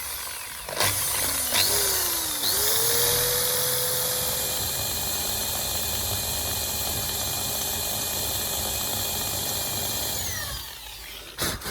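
Electric drill boring a pilot hole for a 4 mm self-tapping screw with a bit just under that size. The motor speeds up in a few short pulls at first, then runs steadily and winds down near the end, ending with a click.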